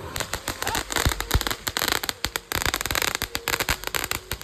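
Phantom Fire Fountain, a consumer firework fountain, burning with a rapid, dense crackle and a couple of louder pops about a second in.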